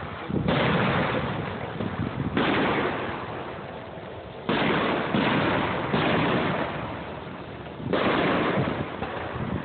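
Fireworks going off: about six sudden bangs a second or two apart, each fading out slowly.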